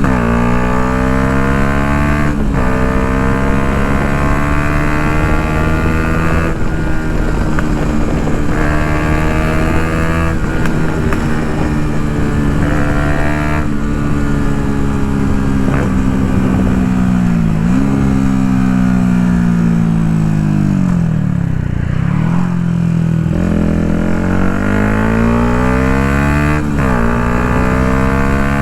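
Yamaha MT-125 single-cylinder four-stroke engine through an Akrapovic full exhaust while riding. It pulls up through the revs with quick drops in pitch at upshifts, holds a fairly steady cruise, falls off as the bike slows about two-thirds of the way through, then revs up again and shifts near the end.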